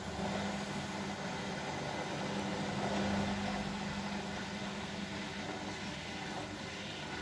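Bosch Maxx WFL 248Y front-loading washing machine running with a steady mechanical hum, swelling slightly about three seconds in.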